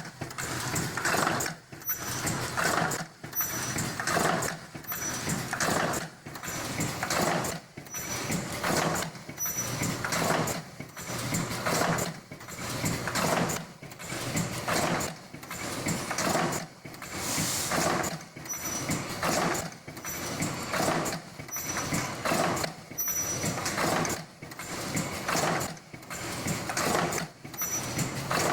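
Outside ear-loop welding machine for face masks running in its automatic cycle, its mechanism going through one stroke about every second in an even rhythm. A short high tone sounds on many of the cycles.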